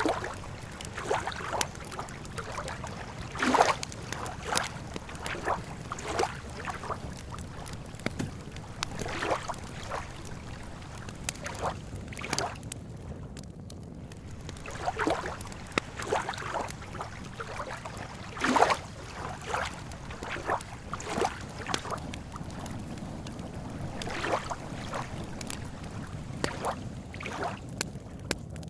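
Lake water lapping and splashing in small irregular slaps, one to three a second, over a steady low rumble.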